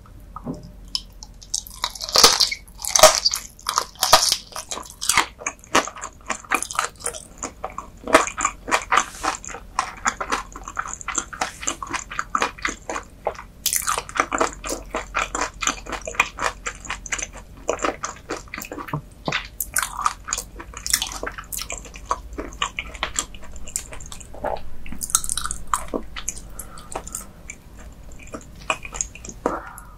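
Close-miked crunchy chewing of raw whole gizzard shad sashimi eaten bones and all. The loudest sharp bites come about two to four seconds in, followed by continuous crisp crunching and chewing.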